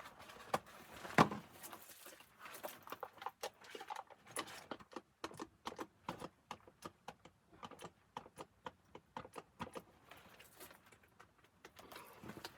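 A run of irregular, sharp clicks and knocks, with one louder knock about a second in and the clicks coming thick and fast through the middle.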